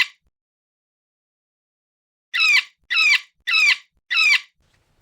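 Parrot squawking: a harsh call right at the start, then after about two seconds of silence, four short squawks about 0.6 s apart, much alike.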